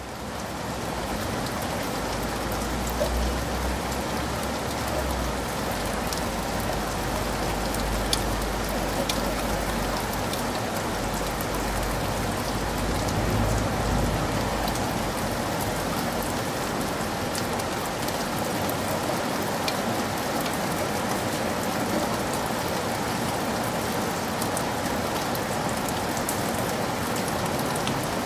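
Heavy rain falling steadily, fading in over the first second, with individual drops ticking on surfaces through the dense hiss. A low rumble sits underneath for the first two-thirds and dies away.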